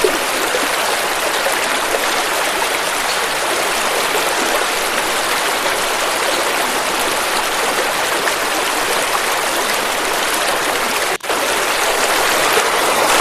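River water flowing and rushing steadily, with a momentary break in the sound about eleven seconds in.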